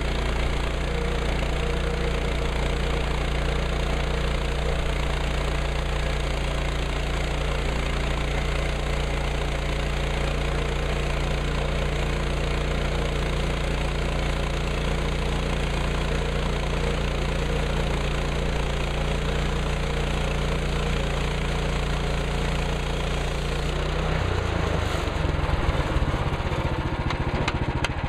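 Engine of a Woodland Mills HM130 Max portable bandsaw sawmill running steadily. About 24 seconds in its note changes, and a fast rattle follows near the end.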